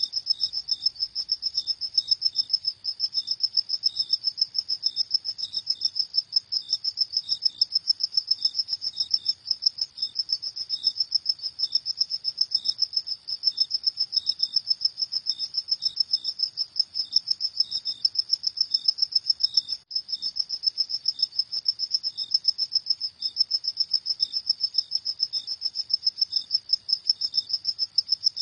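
Crickets chirping in a fast, steady, unbroken run of high-pitched pulses, with a second, lower-pitched cricket chirping more slowly beneath.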